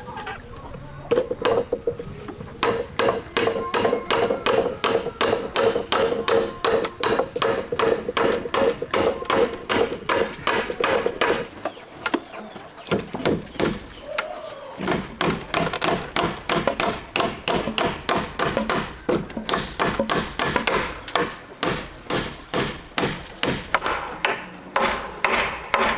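Hammer blows on wood, a fast, even run of strikes about two to three a second, pausing briefly around the middle and then picking up again.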